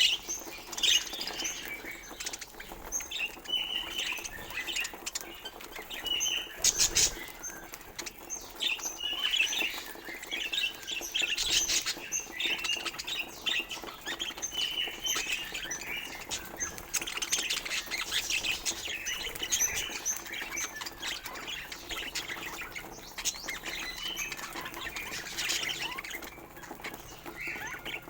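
Budgerigars chattering: a continuous stream of short chirps and squawks.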